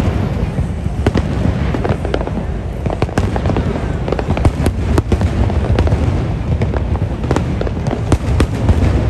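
A dense aerial fireworks barrage: a continuous low rumble of bursting shells with rapid sharp cracks and bangs throughout.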